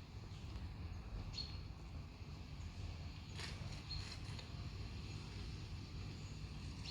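A few short, faint bird chirps from a bird video playing through a tablet's speaker, over a steady low hum, with a brief click or tap in the middle.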